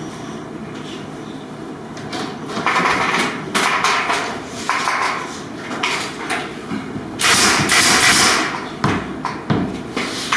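Hand work on gypsum board: a run of rough scraping strokes with sharp knocks between them, starting a couple of seconds in, and a longer, louder scrape about seven seconds in.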